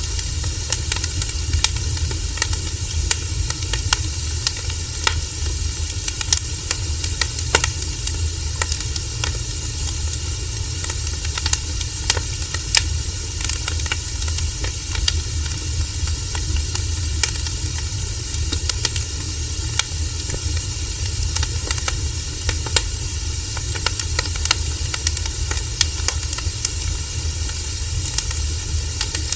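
Wood fire burning, its logs crackling and popping in frequent irregular snaps over a steady hiss and low rumble.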